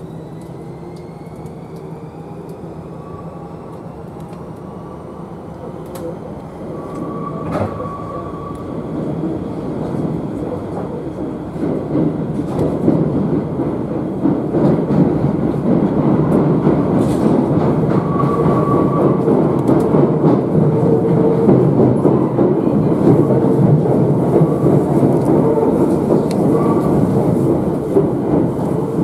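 Kintetsu electric train pulling away underground, heard from inside the car. A rising motor whine at the start gives way to wheel-and-rail running noise that grows louder over several seconds and then holds steady as the train picks up speed.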